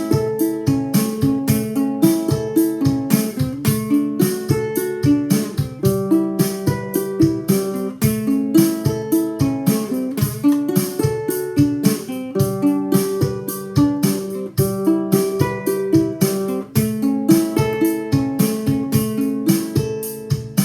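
Ukulele fingerpicked in a repeating rolling arpeggio pattern of single plucked notes, over a steady drum machine beat.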